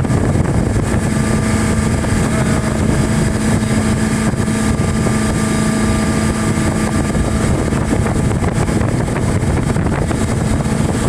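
Speedboat engine running at a steady speed, with a constant hum and wind on the microphone.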